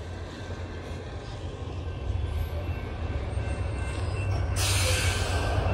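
Low rumble of an approaching train, growing slowly louder, with a brief hiss about four and a half seconds in.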